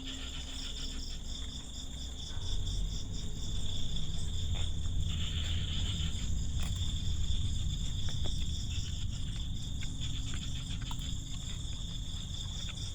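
Night insect chorus, crickets and the like, keeping up a steady high-pitched chirring. Under it a low rumble comes in about two seconds in, with a few faint clicks.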